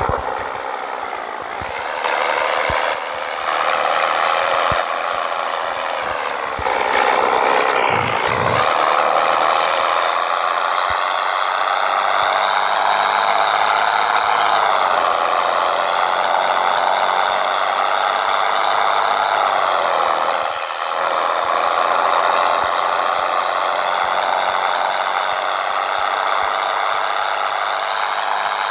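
Scania 113 truck's diesel engine pulling under load, its note slowly climbing and dropping briefly several times as it changes gear.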